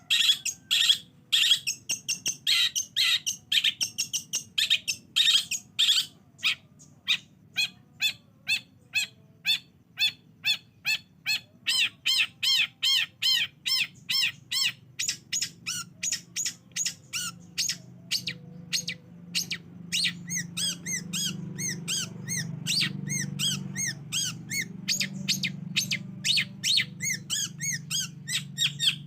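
Long-tailed shrike (cendet) calling in a fast series of short, harsh, high notes: dense at first, then evenly repeated at about three a second. This is a lure recording used to get a quiet captive cendet to respond and sing. A low hum sits under the second half.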